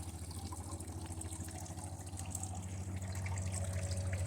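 Faint crackling and sizzling from a circuit board burning under heavy current from a lead-acid battery, over a steady low hum.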